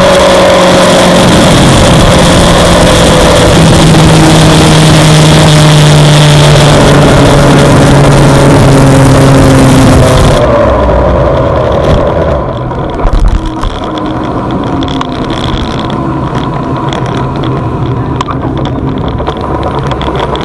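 Onboard sound of a Suzuki GSX-R600's inline-four engine running hard with heavy wind rush, its revs slowly falling. About halfway the wind rush cuts off abruptly and the sound drops, with a couple of sharp knocks, before a quieter steady running sound.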